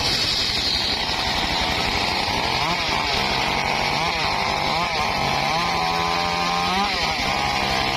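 Engine-driven circular saw running while cutting wood. The engine note rises and falls again and again, over a steady hiss.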